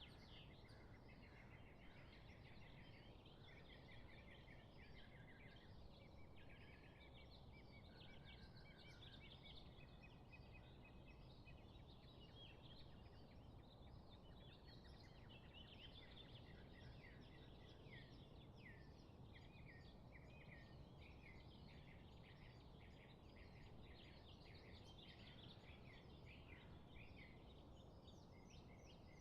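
A dense chorus of many small birds chirping and trilling together, short high calls overlapping continuously, over a faint steady low background hiss.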